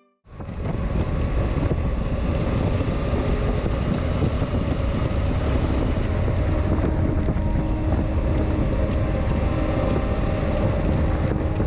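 Motorcycle riding at highway speed: steady wind rush buffeting the microphone over the low, even drone of the engine and road. It cuts in abruptly just after the start.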